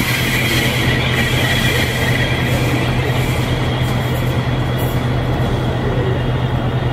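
Passenger coaches of a train rolling past on curved track, their wheels squealing, the squeal fading after about a second as the train moves away. Under it runs a steady low drone of an idling diesel railcar engine.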